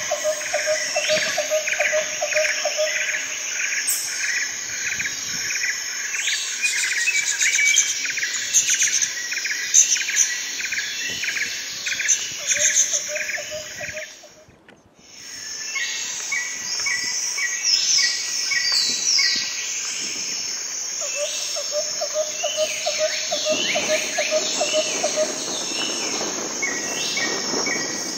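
A chorus of chirping birds and trilling insects, with many quick repeated chirps and pulsing trills. It drops out briefly about halfway through and then resumes.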